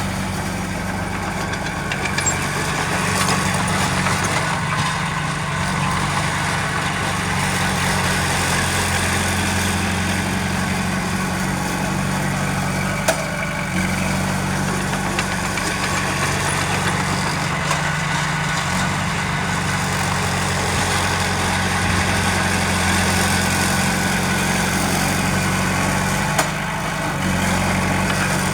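Heavy diesel engine of earthmoving machinery running steadily, with a deep engine hum and a mechanical clatter above it. There is a single sharp click about halfway through and a brief drop in level near the end.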